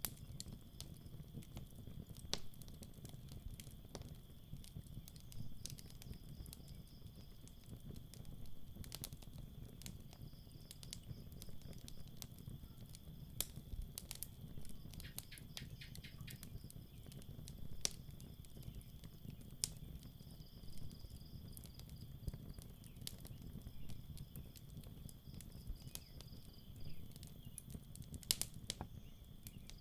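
Campfire burning with scattered sharp crackles and pops over a low rumble, while night insects trill steadily in a high pitch, one trill fading in and out every few seconds.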